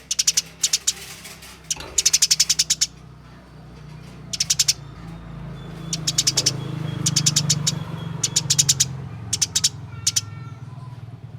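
Eurasian tree sparrows chirping in about nine quick bursts, each a rapid run of sharp, dry notes. This is the fast rolling chatter of fighting-type sparrows.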